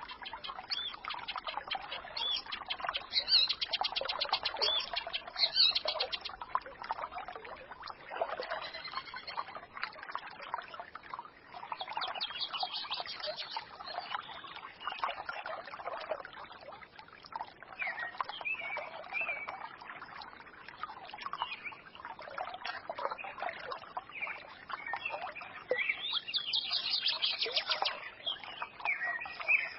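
A small forest stream babbling steadily, with songbirds chirping and trilling over it, most busily a few seconds in and again near the end.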